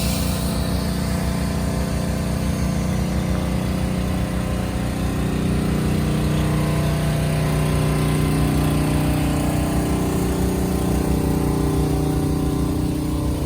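Diesel locomotive engine running steadily, with a shift in its engine note about five seconds in.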